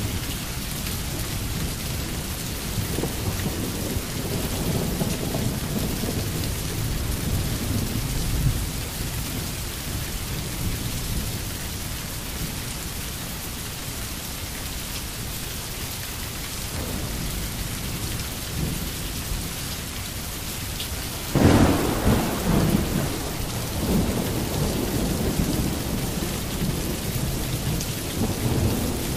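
Steady rain with low rolling thunder in a thunderstorm. About three-quarters of the way through, a sudden, louder clap of thunder comes in and rumbles on for a few seconds.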